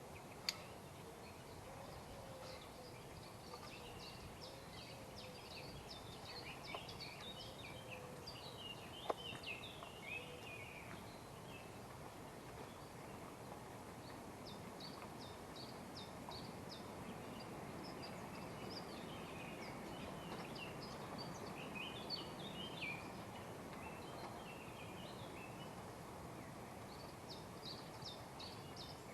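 Small birds chirping and singing in many short notes over a steady hiss of outdoor background noise, with a couple of sharp clicks or knocks.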